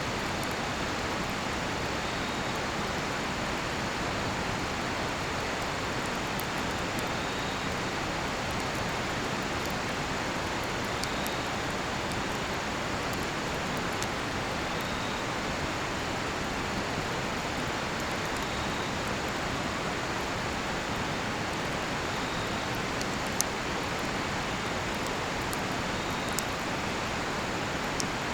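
Steady rush of a river flowing nearby. Over it, a cedar-wood campfire gives a few sharp pops, the loudest near the end, and insects chirp faintly about once every second or two.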